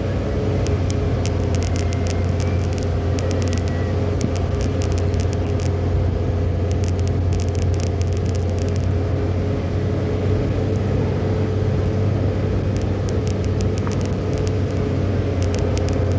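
A car driving along steadily with an even, low drone of engine and road noise. Clusters of quick light ticks come and go over it.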